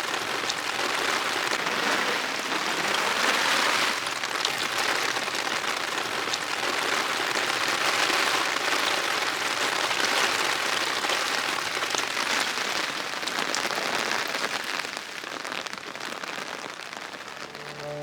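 Steady rain falling, with scattered sharp drip ticks among the hiss. It eases a little near the end.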